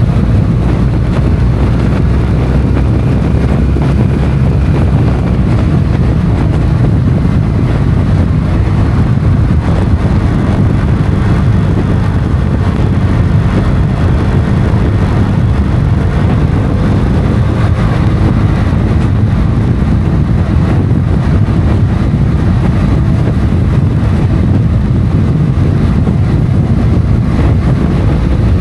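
Motorcycle riding at road speed: a steady engine note whose pitch shifts slightly, under constant wind noise on the microphone.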